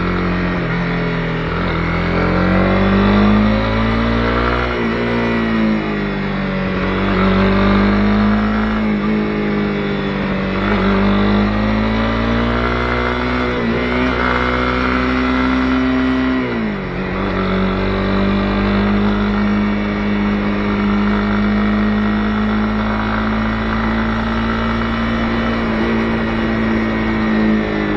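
Honda CB250R single-cylinder engine under way. Its pitch rises and falls several times with the throttle, drops sharply about two-thirds of the way through as it shifts gear, then holds a steady cruising note.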